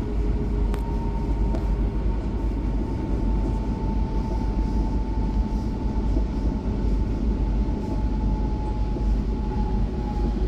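Passenger train rumbling as heard from inside the carriage, with a thin steady whine that slowly drifts lower in pitch as the train slows into a station stop.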